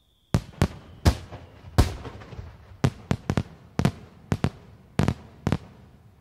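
Aerial firework shells bursting: about a dozen sharp bangs in quick, irregular succession, each trailing off in a short echo, starting about a third of a second in.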